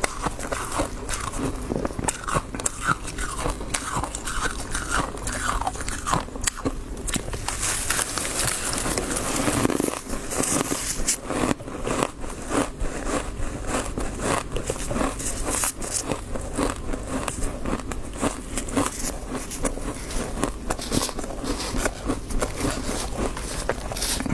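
Close-miked biting and chewing of crunchy frost, a dense run of irregular crunches.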